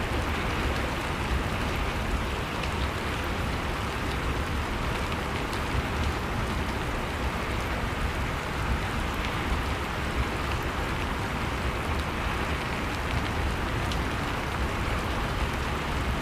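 Steady rushing of storm wind, with small, scattered crackles from a burning wood fire.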